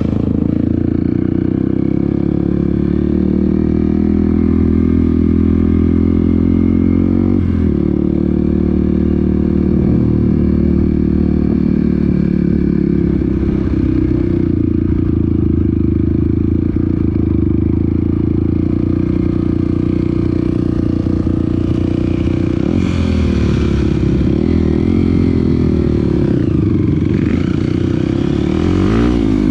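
Off-road trail vehicle's engine running steadily while riding, its pitch dropping about seven seconds in and rising and falling several times near the end as the revs change.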